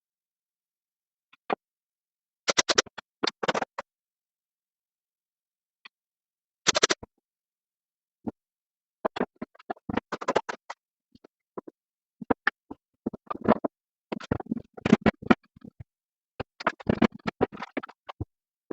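Irregular clusters of short wooden knocks, taps and scrapes as plywood parts are handled and pushed together, separated by gaps of silence.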